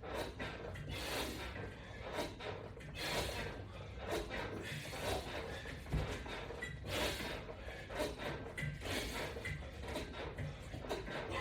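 A person breathing hard with effort, a forceful breath out about every two seconds. Small knocks and rustles of exercise equipment run underneath.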